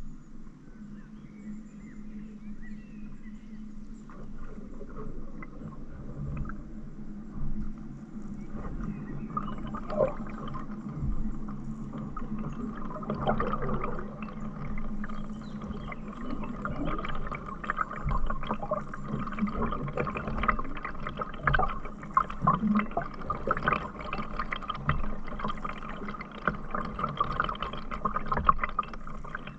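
Water splashing and gurgling close to a canoe, quiet at first and growing busier and louder from about nine seconds in.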